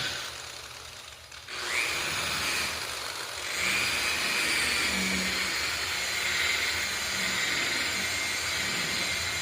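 DeWalt variable-speed electric buffer polishing a car's hood with rubbing compound. It dips away briefly, starts up again about a second and a half in, and then runs steadily with a high whine.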